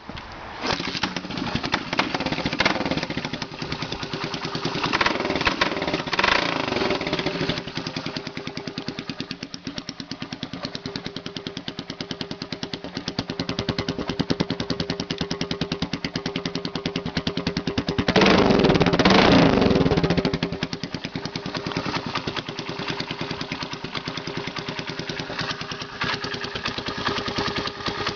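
1974 Honda XL175's single-cylinder four-stroke engine running through a homemade exhaust bent from 1-inch electrical conduit, which gives it a higher note than a stock pipe. It idles with an even beat, is blipped a few times early on, and revs up harder for about two seconds past the middle before settling back to idle.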